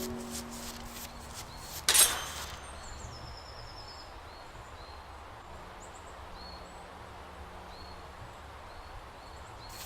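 Plucked harp music rings out and fades, a single sharp hit comes about two seconds in, then a steady faint outdoor background with small high chirps.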